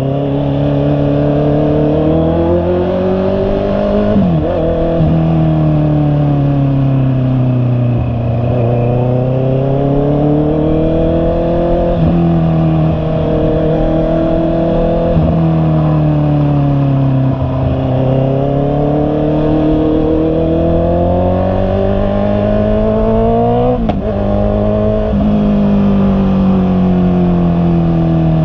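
Honda CB650R's inline-four engine under way, its pitch rising and falling with the throttle. There are a few quick breaks in the note where gears change.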